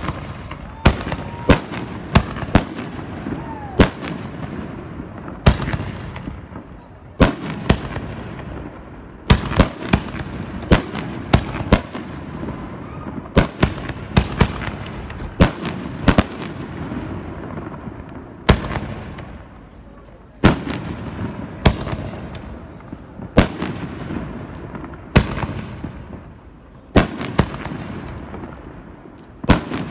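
Aerial firework canister shells going off in steady succession: a sharp bang about every second or so, each trailing off in a rumbling echo.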